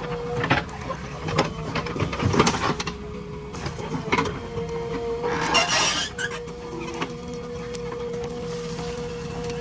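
JCB 3DX backhoe loader working: its engine hums with a steady whine, broken by repeated knocks and clanks and a short rushing burst a little past halfway.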